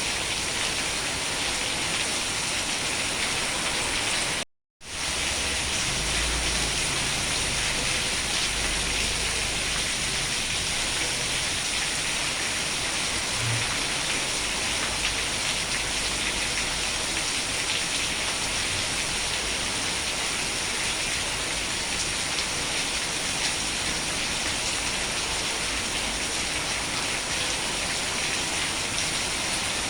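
Steady rain falling, an even hiss of drops on surfaces. About four and a half seconds in the sound cuts out to silence for a fraction of a second, then comes straight back.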